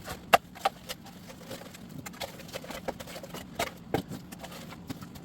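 Scattered sharp knocks and clacks from work in a dug-out concrete floor: tools, broken concrete and gravel striking one another. The louder knocks come about half a second in and again near the end.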